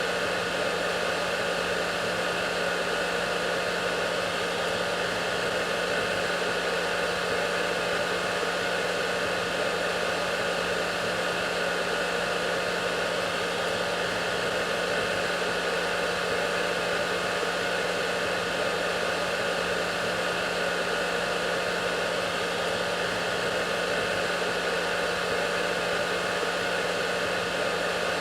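Hair dryer running steadily: an even, unchanging rush of air with a low motor hum underneath.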